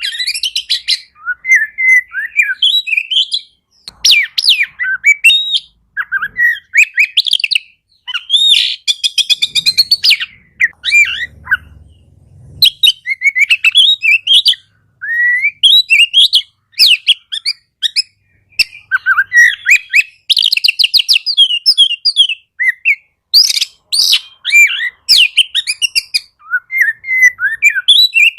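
Oriental magpie-robin (kacer) in full song: a loud, rapid, varied run of whistles, trills and harsh chatters, delivered in phrases with short breaks.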